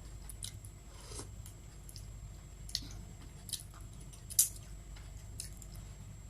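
Close-miked eating: a handful of crisp crunches and mouth clicks while chewing, the loudest a little past four seconds in, over a steady low hum.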